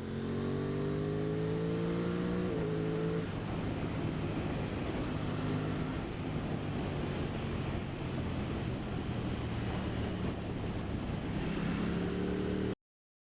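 Aprilia Tuono 660's parallel-twin engine pulling up through the revs, then changing gear about two and a half seconds in and riding on under heavy wind rush. The engine climbs again near the end before the sound cuts off suddenly.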